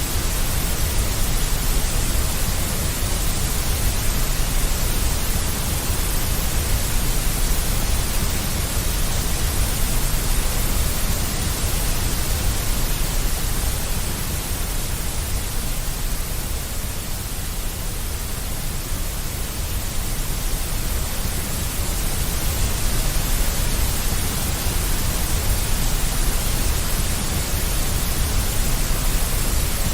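Deep white noise: a steady electronic hiss with a strong low rumble underneath, easing slightly in level about halfway through.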